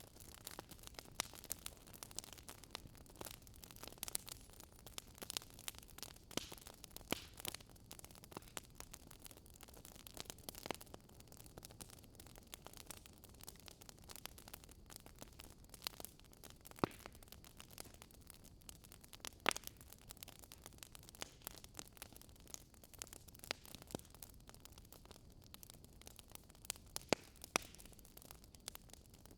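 Wood fire crackling: irregular sharp pops and snaps over a soft hiss, with a few louder pops partway through and near the end.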